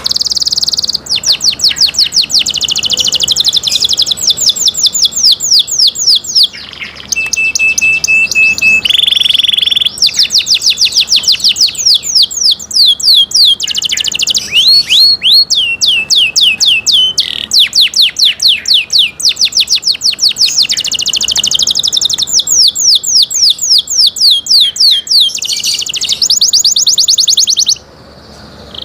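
Canary singing long runs of rapid repeated trills, one fast-repeating note after another, changing from trill to trill every few seconds. About seven seconds in there is a steady whistled note, then a buzzy one, and the song breaks off briefly near the end.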